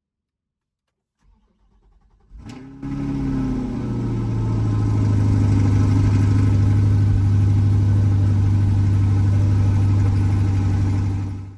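A car engine cranks briefly and catches about two and a half seconds in, flares up in revs and drops back, then settles into a steady idle. It cuts off abruptly near the end.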